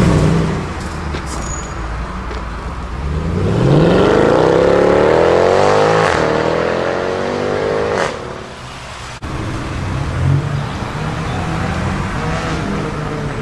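Mercedes-Benz C63 AMG's 6.2-litre V8 accelerating hard as it pulls away, its note climbing steadily for about four seconds before breaking off suddenly. Then a second car, an Audi RS3, with its five-cylinder engine running at low revs as it rolls past.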